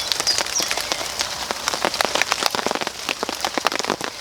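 Steady rain falling, with many sharp, irregular drop impacts close by.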